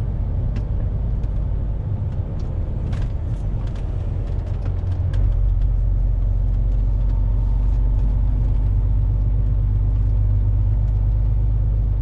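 Fully loaded lorry driving, its engine and road noise heard as a low rumble inside the cab, with scattered light rattles in the first few seconds. The rumble grows louder about five seconds in.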